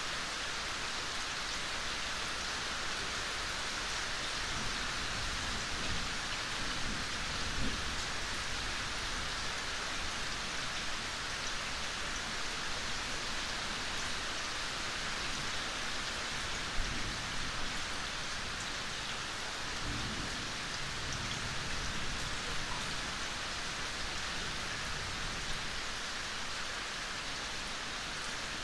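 Steady gentle rain falling, a dense even patter of drops with a few louder single drops standing out now and then.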